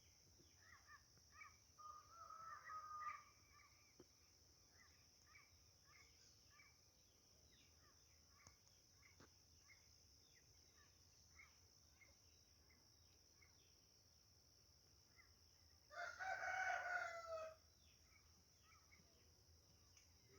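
Rooster crowing twice: a fainter crow about two seconds in and a louder crow, about a second and a half long, near the end. Small birds chirp throughout over a steady high insect hum.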